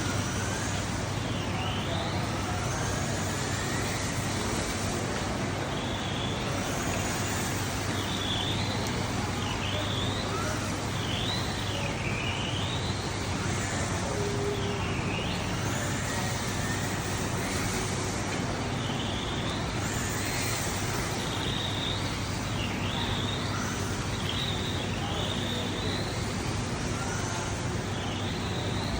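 Electric motor of a Tamiya TT02 1/10 radio-controlled touring car whining, rising and falling in pitch again and again as the car speeds up and slows down. Under it is a steady hiss of wet running and rain.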